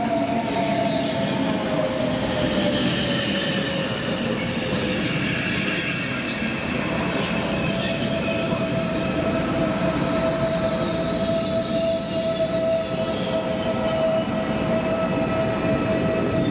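CP Alfa Pendular (series 4000 Pendolino) electric tilting train rolling slowly along the platform as it brakes to a stop, its wheels rumbling under a steady high squeal of several held tones that dip slightly in pitch over the first few seconds.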